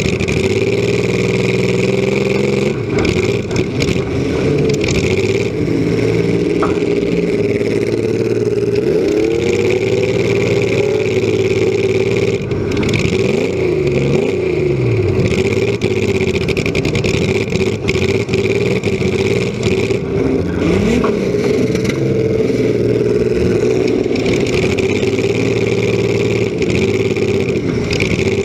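Demolition derby compact car's engine running through short open exhaust stacks, revving up and down again and again as it drives, with a few scattered knocks and clatter.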